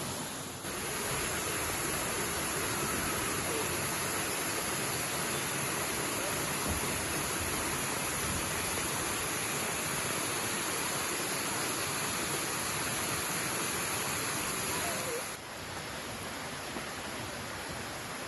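Steady rushing water of a 77-foot waterfall, an even roar of noise. It steps up louder just under a second in and drops back down about fifteen seconds in.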